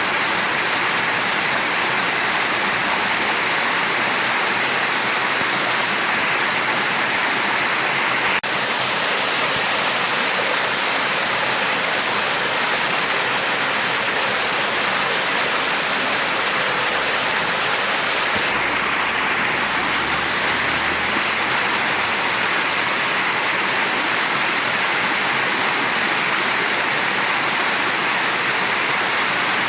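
Mountain stream water rushing steadily: a dense, unbroken hiss of flowing water, with one brief dropout about eight seconds in.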